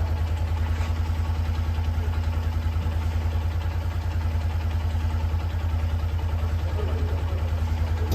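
A motorcycle engine idling steadily, with a low hum and a fast, even pulse.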